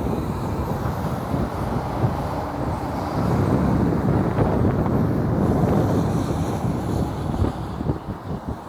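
Heavy truck driving past, its engine and tyres getting louder through the middle and falling away near the end.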